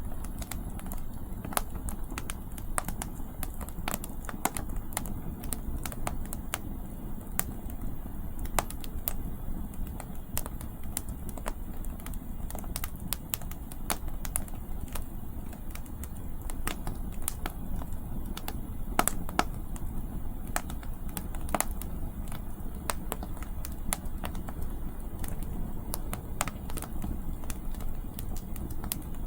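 Wood campfire burning, with irregular sharp crackles and pops from the firewood over a steady low rumble of wind.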